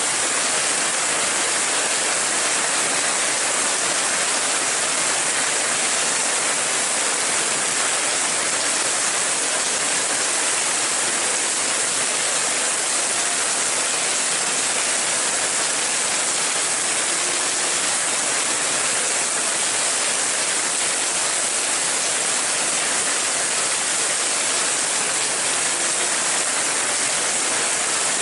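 Rain falling steadily, an even hiss with no single drops or pauses standing out.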